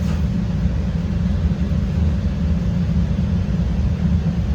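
CTA Red Line rapid-transit train running between stations, heard from on board: a steady low rumble of the car and its wheels on the rails.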